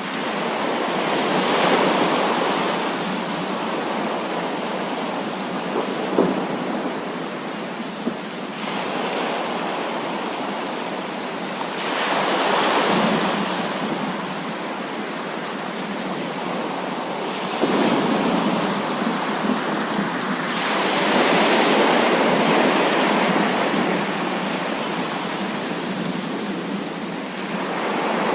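Heavy rain pouring steadily during a thunderstorm. It swells louder several times as thunder rolls, and a few short sharp cracks cut through.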